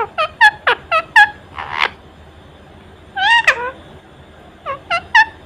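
Indian ringneck parakeet squawking in quick bursts: about six short calls in the first second, a short harsh rasp, then a longer call around three seconds in and three more short calls near the end.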